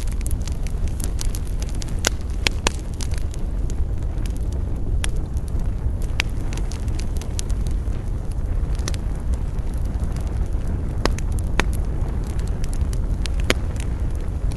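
Wood fire crackling: a steady low rumble with frequent small pops and a few sharper, louder snaps scattered through.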